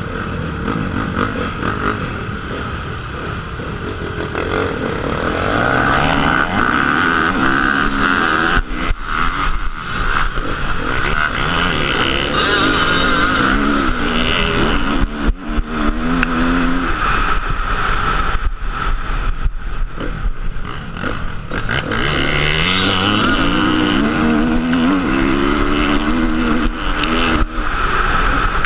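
Motocross bike engine revving hard under acceleration, its pitch climbing again and again as it pulls through the gears, with brief drops when the throttle is shut.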